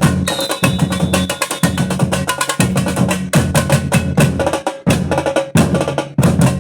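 Batucada samba percussion ensemble playing together: a dense, fast run of drum strikes over regularly repeating deep bass-drum beats, with a brief break about five seconds in.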